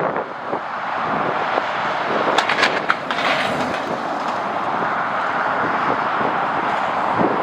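Steady rushing noise of a jet airliner's engines, mixed with wind buffeting the microphone; a few sharp clicks come about two and a half seconds in.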